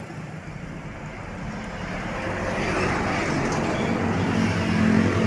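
Road traffic: a heavy vehicle such as a truck or bus approaching, its engine and tyre noise growing steadily louder.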